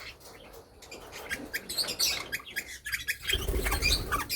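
Pet parrots chirping: many short, high chirps, growing busier in the second half, with a low rumble about three seconds in.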